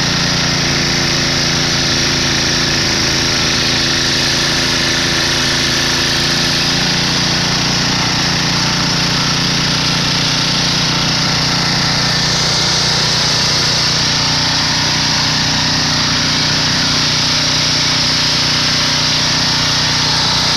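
Snowblower's small petrol engine running steadily under load, with a steady hiss that grows a little stronger partway through.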